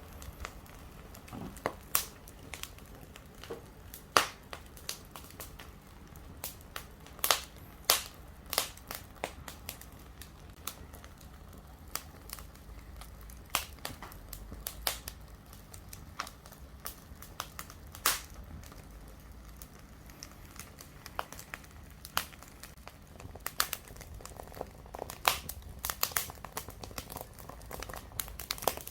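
Campfire wood crackling, with irregular sharp pops a second or more apart over a low steady hiss of the fire.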